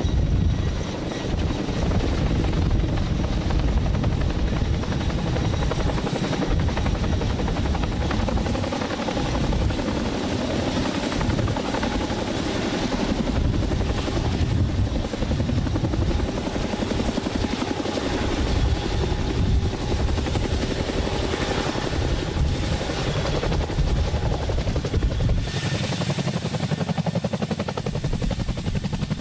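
CH-47F Chinook tandem-rotor helicopter with GE T408 turboshaft engines, running in flight: continuous rotor chop under a steady high turbine whine.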